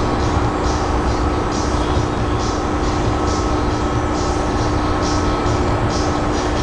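Freight train rolling slowly past, its wheels clicking in pairs about once a second over a steady rumble and hum.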